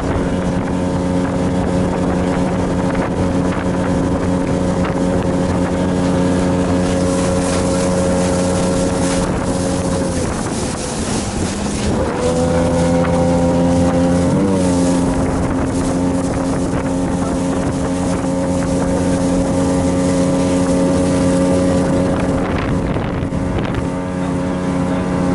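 Boat engine running steadily at sea. About ten seconds in its pitch drops and sags for a couple of seconds, then rises back to a steady speed.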